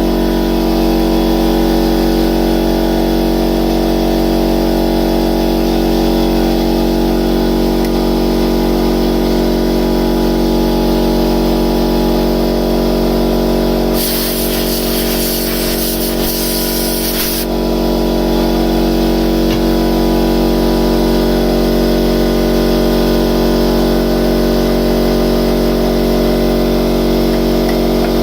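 Steady hum of workshop machinery running throughout. About halfway through, a blast of compressed air from an air line hisses for a few seconds, blowing shattered pieces of a broken tap out of a hole.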